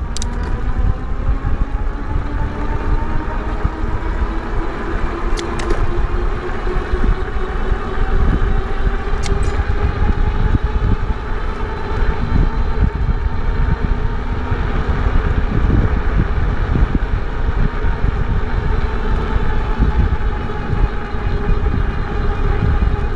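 Wind rushing over the microphone of a moving e-bike, with the thin whine of its electric motor, which rises slowly in pitch over the first ten seconds and then holds steady. A couple of brief clicks.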